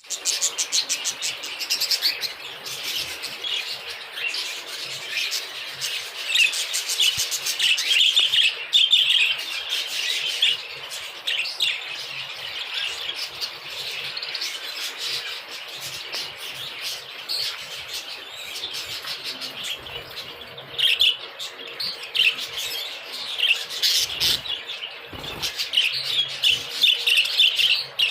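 A flock of budgerigars chattering and chirping continuously, with louder bursts of warbling now and then.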